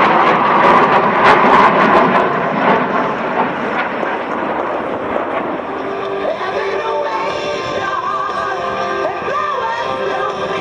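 Jet roar of Blue Angels F/A-18 Hornets, twin-turbofan fighters, passing and fading over the first five seconds or so. Music with a singing voice then takes over.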